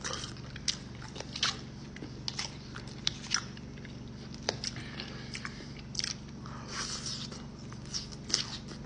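Close-miked mukbang chewing of a mouthful of creamy chicken spaghetti, with wet mouth smacks and clicks about a second apart. Near the end a forkful of green beans goes in and is bitten.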